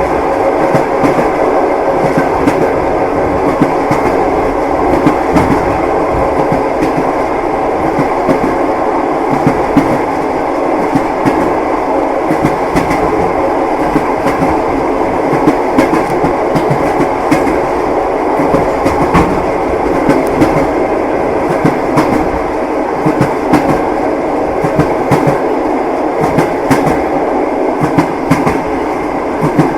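Train wheels clacking over the rails, with the continuous rumble of a moving railway carriage and frequent short, irregular knocks and clicks on top.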